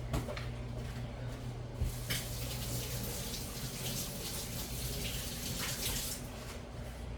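Kitchen sink faucet running while hands are rinsed under it. The water comes on about two seconds in and eases off near the end.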